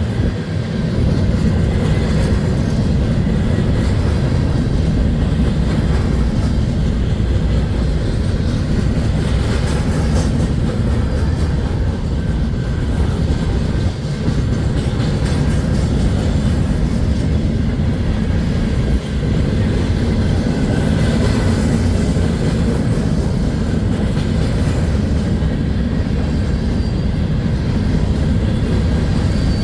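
Freight train cars rolling past on the rails, a loud steady rumble of wheels on track.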